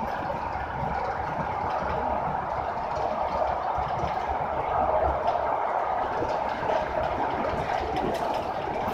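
Steady running noise inside a moving Aeroexpress electric train, heard as a constant, even rumble without distinct rail-joint clicks.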